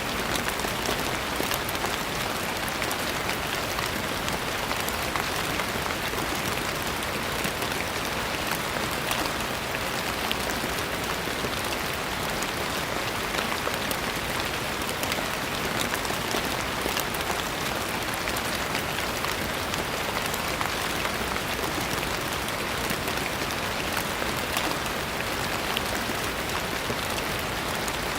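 Steady, even rain falling, a dense patter of many small drops with no pauses or changes.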